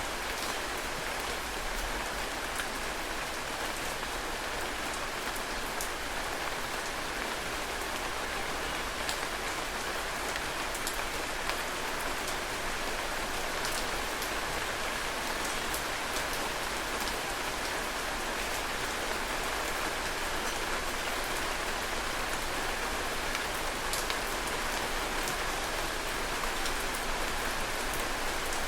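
Heavy rain falling steadily on surfaces, a dense even hiss with scattered individual drop ticks.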